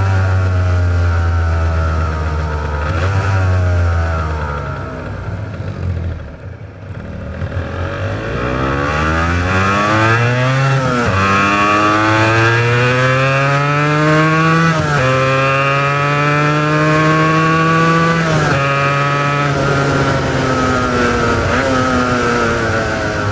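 Honda NS400R's two-stroke three-cylinder engine on its original mufflers, ridden hard: the note falls as the throttle closes and goes quieter about six seconds in, then climbs through the gears, its pitch dropping sharply at each upshift about 11, 15 and 18 seconds in, before easing off and picking up again near the end.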